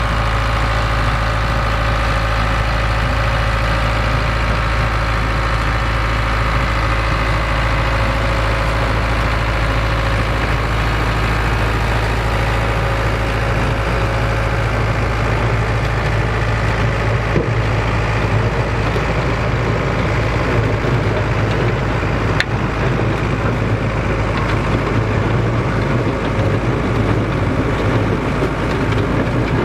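Vintage tractor engine running steadily at low revs, with a single sharp knock about two-thirds of the way through.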